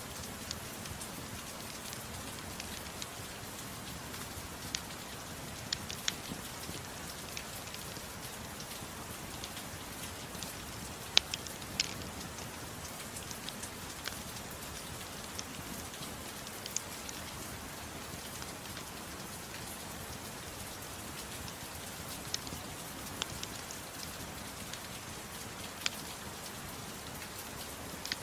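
Steady rain falling, mixed with a crackling fireplace that adds scattered sharp pops at irregular moments. The two loudest pops come about 11 and 12 seconds in.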